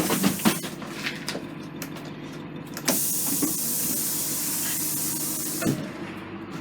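A loud hiss of compressed air from the school bus's air system, starting suddenly about three seconds in and cutting off sharply under three seconds later, over a steady low hum with a few clicks before it.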